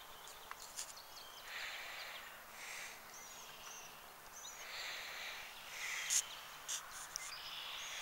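Faint outdoor ambience with a few short, high bird chirps in the middle. Soft breathy rustling sits close to the microphone, and a couple of sharp handling clicks come about six seconds in.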